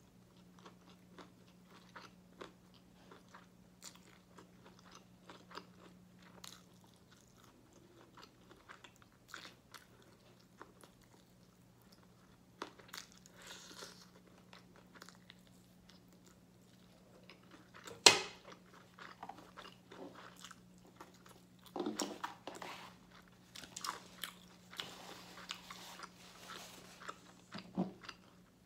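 Close-miked chewing and biting of crispy fried chicken: wet mouth clicks and crunches, scattered at first and coming more densely near the end. A single sharp, loud crunch stands out about two-thirds of the way through. A faint steady low hum runs underneath.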